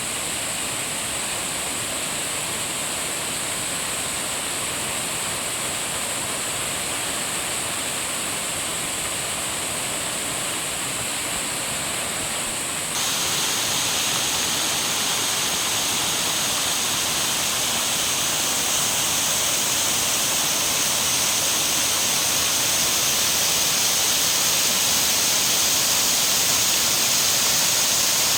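Waterfall: water rushing and splashing in a steady roar. It turns suddenly louder and brighter about halfway through.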